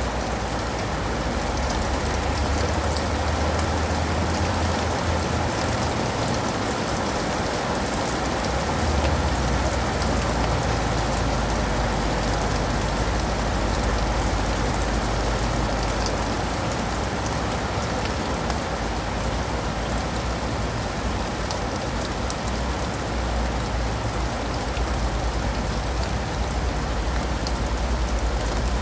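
Steady rain falling, with scattered drops pattering on leaves and pavement over a low rumble.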